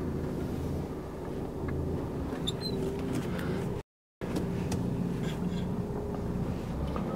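Truck diesel engine running with a steady low hum and a few faint clicks; the sound cuts out for a moment about four seconds in.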